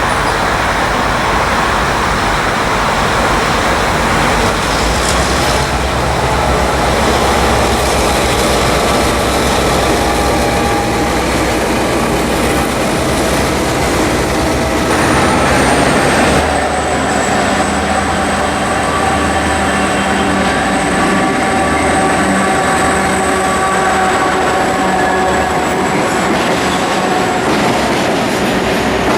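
Train running along the track with a steady rumble of wheels on rails. About halfway through a high, thin whine comes in, dips slightly in pitch and then holds steady.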